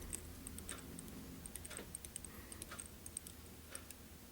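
Faint, irregular small ticks and clicks from fly-tying work at the vise: thread and dubbing being wrapped onto a small hook, over a steady low hum.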